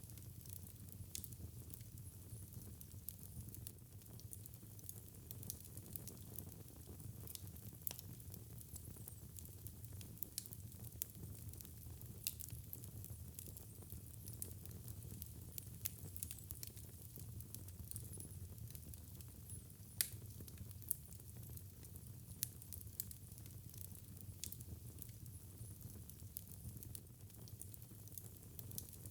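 Fire in a fireplace crackling, with frequent small sharp pops over a low steady rumble; one louder pop about twenty seconds in.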